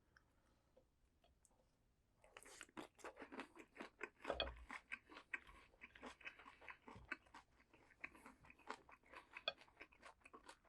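Close-miked eating of crunchy vegetables: after about two seconds of quiet, a bite, then rapid crunchy chewing.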